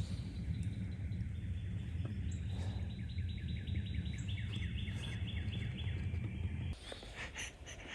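A songbird singing a fast run of repeated short chirps, over a steady low wind rumble on the microphone that cuts off suddenly near the end.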